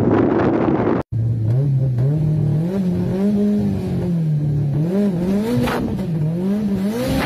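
Inside a 2000 Volkswagen Golf, its engine revs up and down repeatedly on the drag strip start line, then pulls away as the car launches near the end. The first second is wind on the microphone over a steady engine note, cut off by a brief dropout.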